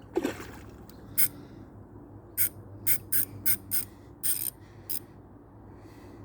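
Fishing reel clicking in about eight short, irregular bursts as line is worked while a big fish is played.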